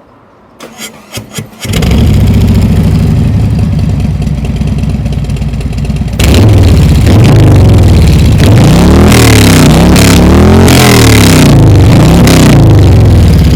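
Cold start of a Harley-Davidson touring bike's V-twin through Rinehart slip-on mufflers: a short crank, the engine catches about two seconds in and idles, then from about six seconds in it gets louder and is revved up and down several times.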